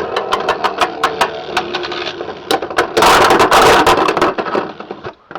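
Beyblade X spinning tops battling in a plastic stadium: a rapid, irregular series of sharp clicking impacts, then about three seconds in a second or so of dense scraping and rattling that dies away near the end.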